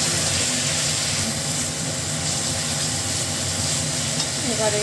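Masala paste frying in oil in a kadai and being stirred with a spatula: a steady sizzle over a constant low hum.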